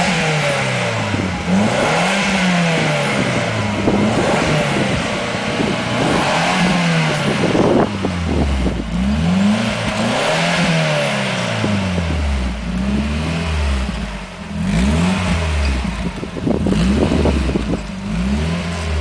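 Audi TT Quattro with an aftermarket dual (duplex) exhaust system, its engine revved again and again: the exhaust note climbs and falls back every second or two.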